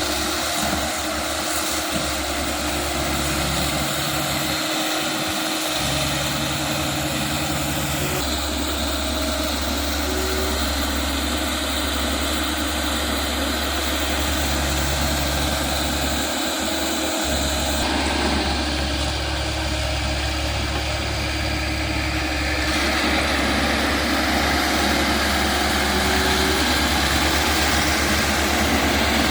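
Diesel engine of a Komatsu PC100-6 hydraulic excavator running steadily. Its tone shifts a few times, and it gets slightly louder about three quarters of the way through.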